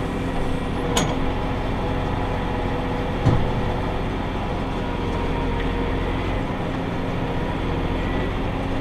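Tractor engine running steadily under load while pulling a round baler, with two short clicks about one and three seconds in.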